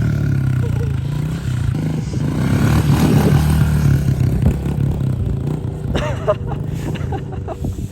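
A 110cc pit bike engine running steadily, swelling louder about three seconds in as the throttle is opened, then easing off.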